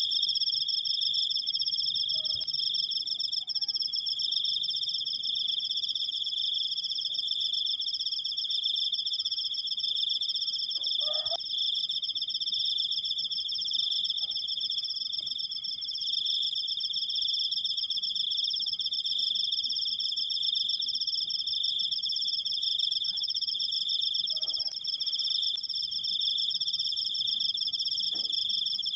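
Cricket singing a long, unbroken high trill (the 'krikkkkk' chirring), steady in pitch and level, with a few faint soft knocks in the background.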